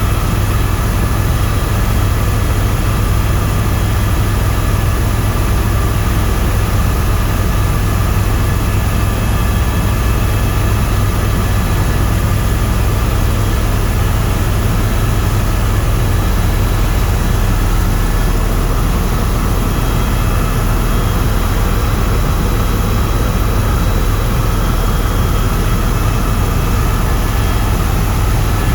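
Tour helicopter in flight: a loud, steady drone of rotor and turbine, with a deep rumble underneath and several steady high whining tones over a hiss.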